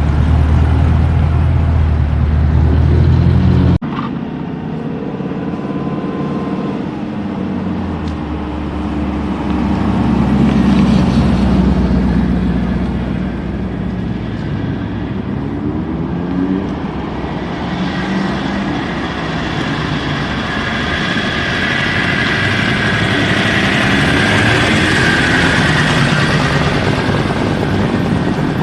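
Motor vehicle engine running: a deep steady note that cuts off abruptly about four seconds in, then engine sound that rises and falls in pitch, getting busier in the second half.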